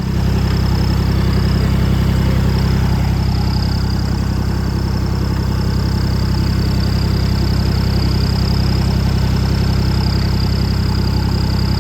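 Tractor engine running steadily, with a steady high whine above it.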